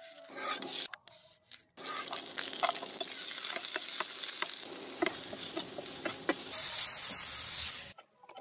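Chopped onion and tomato frying in hot oil in a pan, sizzling steadily while a wooden spatula stirs and clicks against them; the sizzle turns louder and more hissing about five seconds in and stops abruptly near the end. Just before, a knife briefly cuts through a tomato on a wooden board.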